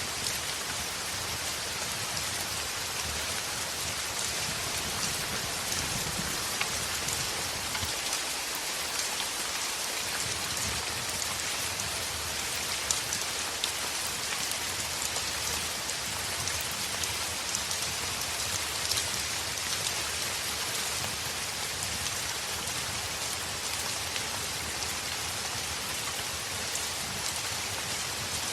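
Heavy rain falling steadily against a window, a dense even hiss with many scattered sharp ticks of drops.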